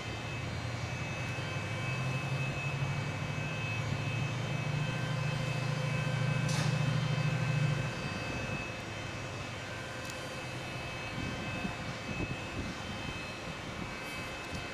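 A train's engine drone, low and steady, growing louder over several seconds and then dropping away sharply about eight seconds in.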